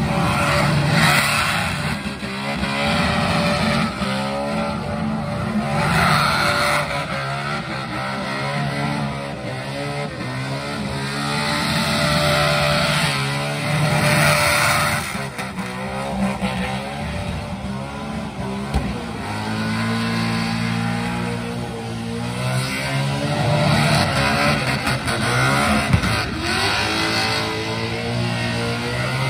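Holden VH Commodore's 358ci NASCAR V8 revving hard through a burnout, the revs rising and falling while the rear tyres spin and squeal on the pad.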